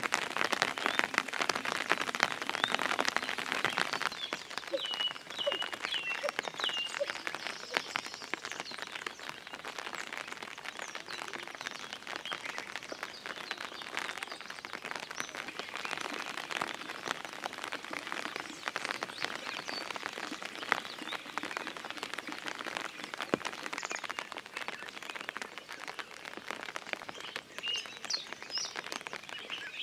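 Small birds chirping in scattered short calls, with a run of quick chirps about five seconds in and more near the end, over a steady crackling hiss.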